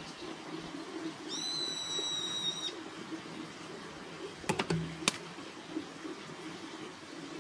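A bird gives one flat, high whistled note lasting about a second and a half, over a low steady background hum. About four and a half seconds in come a few sharp clicks, the loudest sounds.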